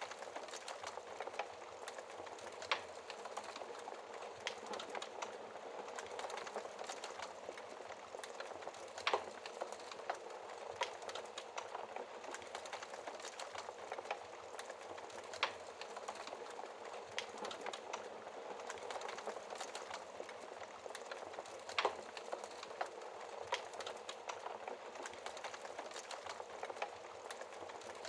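Wood fire burning: a steady hiss with scattered crackles and occasional sharper pops a few seconds apart.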